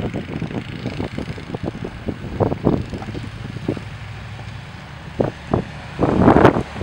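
An engine running steadily under a string of irregular knocks and scrapes, with a louder rush of noise near the end.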